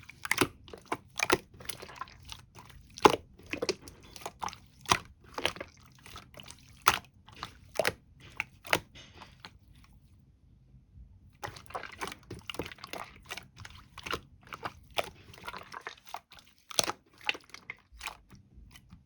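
Close-up chewing and crunching, a run of short sharp crunches one after another, broken by a silent gap of about a second and a half near the middle.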